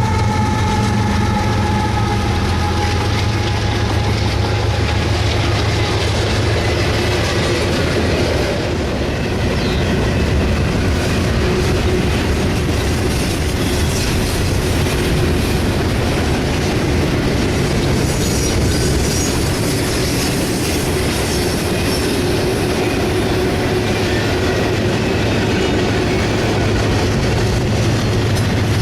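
Freight train rolling past. A low diesel locomotive drone fades over the first several seconds, then the cars go by with steady rail noise, clicking wheels and some high wheel squeal in the second half.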